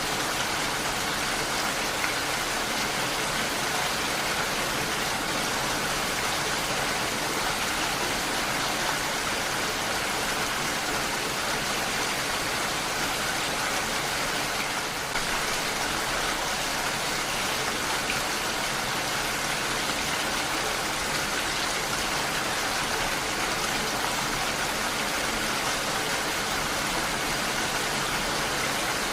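Heavy rain falling steadily, an even hiss of drops with no letup.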